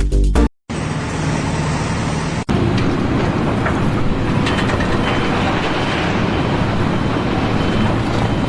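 Music ends about half a second in, then steady vehicle noise with a sudden change about two and a half seconds in.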